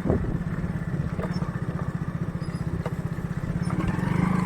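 Motorcycle engine running steadily under way, its fast firing pulse constant and growing a little louder near the end.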